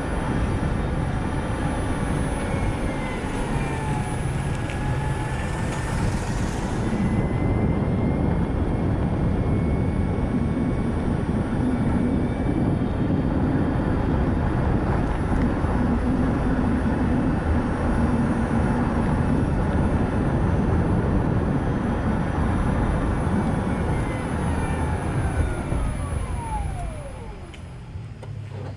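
Steady road and tyre noise from a Nissan Note e-POWER on the move, with a faint thin whine wavering in pitch. Near the end a whine falls steeply in pitch and the noise drops as the car slows down.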